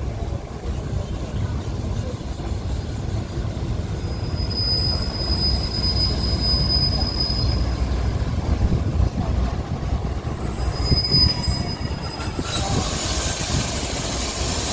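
SRT diesel railcar express train pulling into the platform, rumbling steadily, with two high, steady squeals along the way. A hiss starts near the end.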